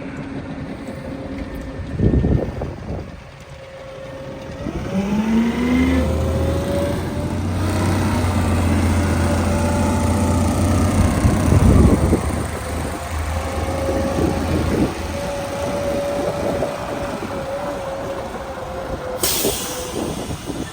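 Heil PowerTrak rear-loader garbage truck running a packing cycle on heavy trash: a thump, then the CNG engine speeds up with a rising, then steady hydraulic whine as the packer blade works, with a loud crunch midway. A short burst of air hiss near the end.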